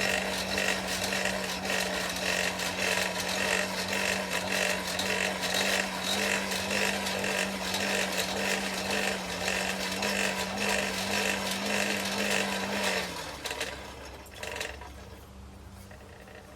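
An electric motor runs steadily, with a constant hum over a loud rushing noise. About 13 seconds in, the hum drops slightly in pitch and the sound fades away as the motor winds down.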